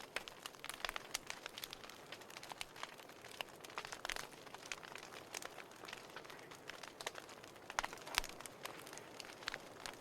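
Wood fire burning, with a soft steady hiss and irregular sharp crackles and pops from the burning logs, a cluster of louder pops about eight seconds in.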